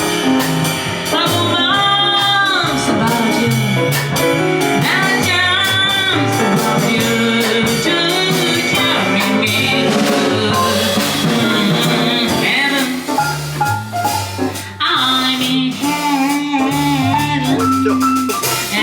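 Live jazz combo playing: a lead melody over a moving bass line and drums.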